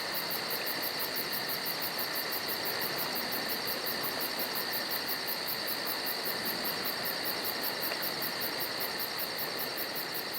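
Insect chorus in the forest: a steady high buzz with a fast, evenly pulsing trill above it.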